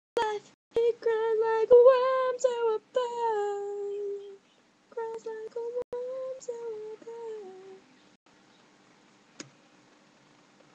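A female voice singing a wordless melody unaccompanied, held notes bending up and down, breaking off about eight seconds in.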